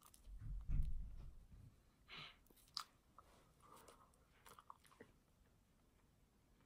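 Faint close-up chewing of burger bread, with soft scattered mouth clicks and small crunches. A low rumble comes about half a second in and fades by a second and a half.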